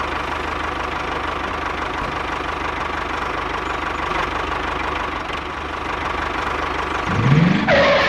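Tractor engine running steadily with a fast, even knocking beat, and a short rising sweep about seven seconds in.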